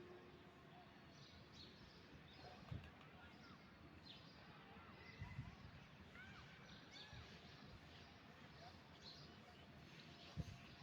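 Faint background noise with scattered short, high bird chirps and a few soft low knocks, one near the end.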